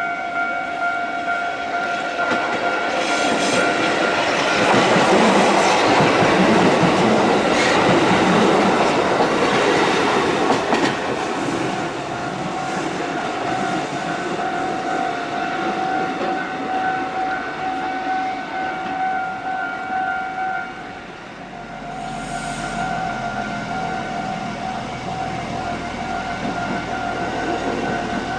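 A Kotoden electric train passes over a level crossing, its wheels clacking over the rail joints as the sound swells and fades. Through it the crossing's warning bell rings steadily. The bell stops briefly about two-thirds of the way through, then starts again over a low rumble.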